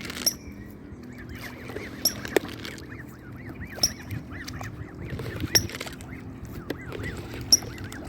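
Canada goose goslings peeping continuously as they feed, with sharp clicks several times.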